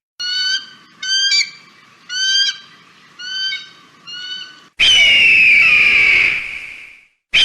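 Hawk calls: five short, harsh pitched calls about a second apart, then, about five seconds in, a long, loud, hoarse scream that falls slightly in pitch.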